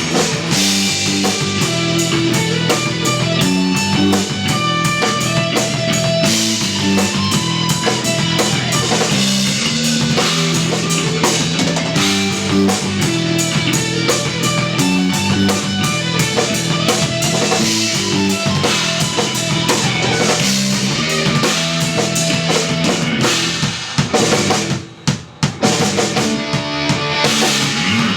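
Instrumental post-rock trio playing live: drum kit, electric bass and electric guitar, with a brief break near the end before the band comes back in.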